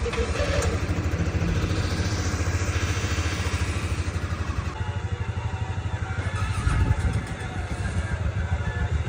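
Arctic Cat ATV engine idling just after a cold start at minus nine degrees, running with a fast, even pulse. It is briefly louder about seven seconds in.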